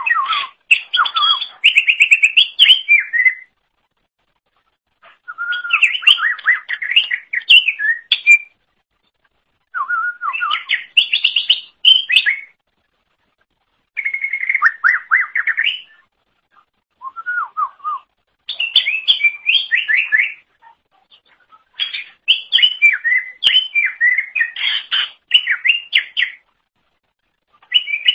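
Green leafbird (cucak ijo) singing loud, fast phrases of varied whistles and chattering notes. About seven bursts of 1 to 4 seconds each are separated by short pauses.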